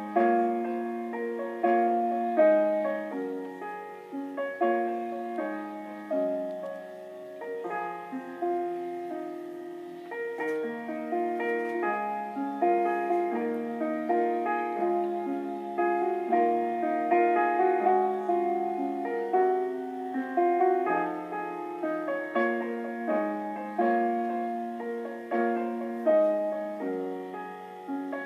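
Slow, gentle solo piano music, single held notes and chords that strike and fade in a melodic line.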